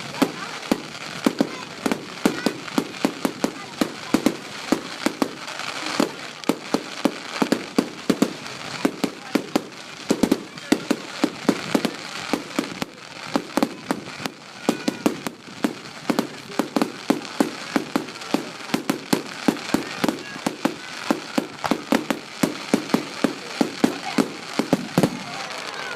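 Fireworks display: a rapid, continuous barrage of firework explosions, several bangs a second, stopping near the end.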